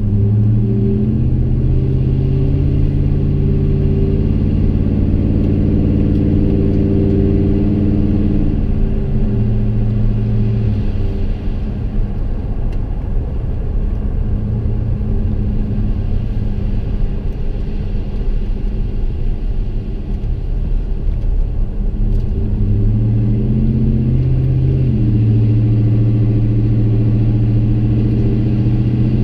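2015 Chevrolet Silverado's 5.3-litre EcoTec3 V8 heard inside the cab while driving, its exhaust running through a Gibson M.W.A muffler and Kooks long-tube headers with no resonator. The engine note holds steady, drops in pitch about eight seconds in, stays softer through the middle, then climbs again over a couple of seconds late on and holds.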